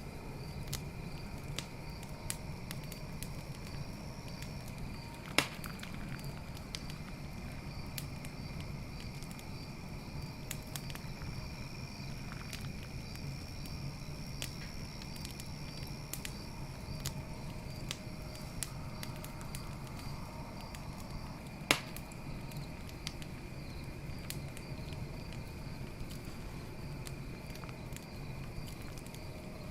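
Campfire wood crackling with scattered small snaps and two louder pops, one about five seconds in and another later on, over a low steady rush of flame. Insects chirp in a steady pulsing trill behind it.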